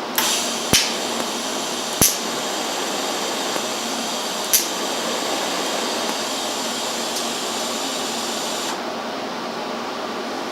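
TIG welding arc on old Volkswagen sheet steel, hissing steadily with four sharp pops in the first five seconds, then cutting off near the end. The popping means the metal is dirty, and the tacks keep blowing holes through the panel.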